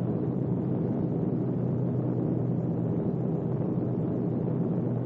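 Propeller aircraft engines droning steadily. The sound cuts off abruptly near the end.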